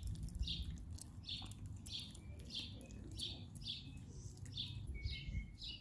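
A small bird chirping over and over, short high chirps about two or three a second, over a low steady rumble.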